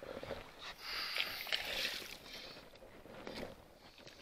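Water splashing and sloshing at the side of a small boat as a hooked pike is played and brought in. The splashing is strongest in the first half and settles toward the end.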